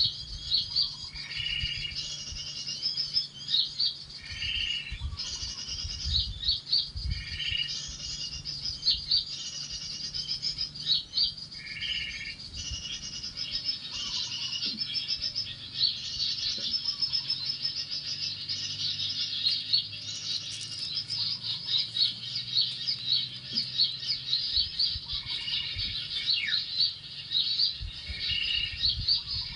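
Small songbirds chirping and calling busily in rapid high notes, with a lower call repeated every few seconds.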